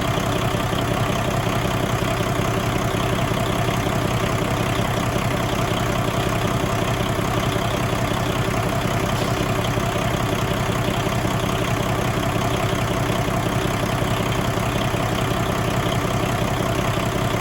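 2014 Paccar MX13 inline-six diesel engine idling steadily.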